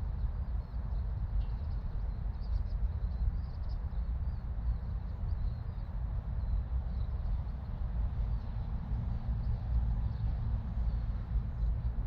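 Outdoor nature ambience: small birds chirping faintly and intermittently over a steady low rumble.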